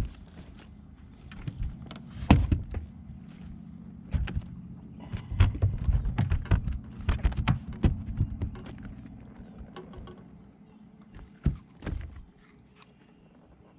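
Irregular thumps and knocks on a fishing boat, some in quick clusters, over a low steady hum that dies away about ten seconds in.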